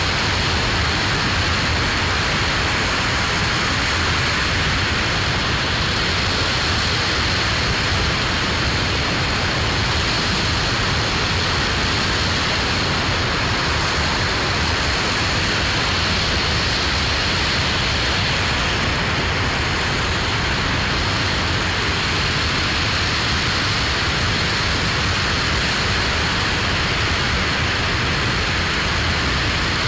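Aerojet Rocketdyne RS-25 liquid-hydrogen/liquid-oxygen rocket engine firing on the test stand: a loud, steady noise that holds the same level throughout.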